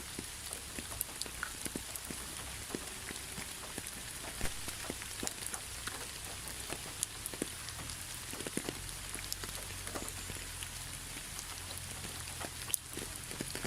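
Steady rain falling, an even hiss with frequent close drops ticking individually on a surface.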